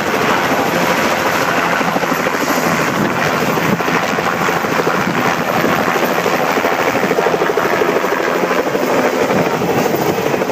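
Helicopter running close by, loud, its rotor blades beating in a fast, steady chop.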